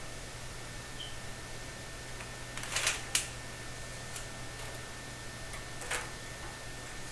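Handling noise: a few short clicks and a brief rattle about three seconds in, and another click near six seconds, over a steady low hum and hiss.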